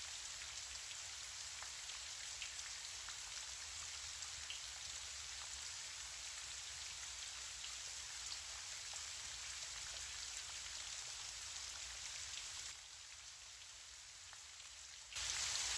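Gentle rain falling steadily, with scattered individual drops pattering. Near the end it softens, then briefly swells louder.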